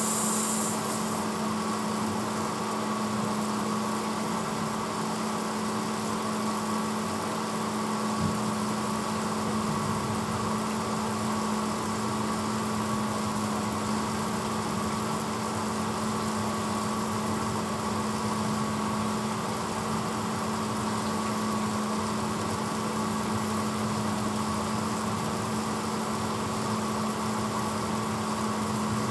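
1986 Hotpoint Potwasher dishwasher running mid-cycle: a steady motor hum over an even wash noise. A high hiss cuts off shortly after the start, and there is one faint click about 8 seconds in.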